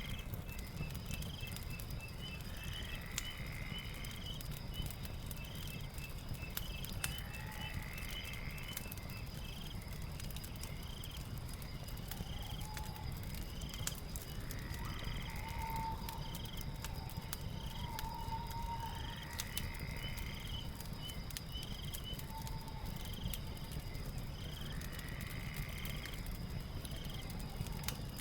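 Night ambience of chirping crickets and insects with a steady high drone, a call that repeats about every four seconds, and a few lower calls midway, over a low rumble with scattered sharp crackles from a fireplace.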